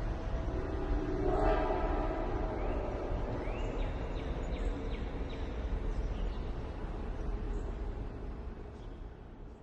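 Long Island Rail Road train rumbling on the rails and fading away, with a short tone about a second and a half in and a few high squeals near the middle.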